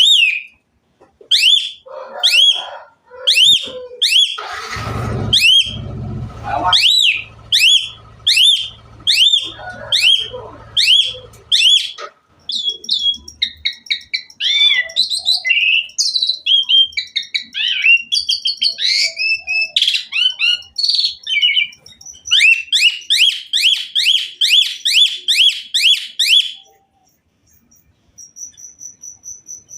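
Asian pied starling (jalak suren) singing its full song with mimicked phrases. Loud downward-hooked whistles repeat about every half second, then a varied stretch of mixed calls, then a fast string of rapid repeated notes for a few seconds before it falls quiet near the end. A low rumble sits under the song for several seconds in the first half.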